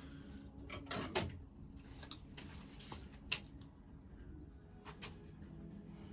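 Scattered small metallic clicks and taps of hand tools working a tiny pin out of an engine's linkage, the sharpest about three seconds in, over a faint steady low hum.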